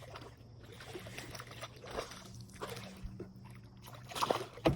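Light water sloshing and small knocks of handling in a kayak, with a louder cluster of splashy knocks about four seconds in.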